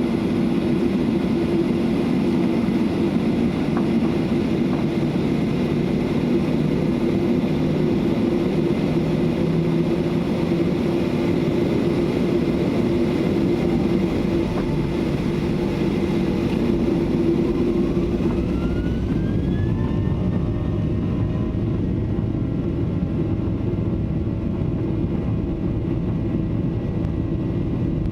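Boeing 737-800 at take-off thrust, its CFM56-7B turbofans running with a loud steady hum and rush of noise. A rising whine sounds about two-thirds of the way in, after which the hiss eases and steadier tones take over.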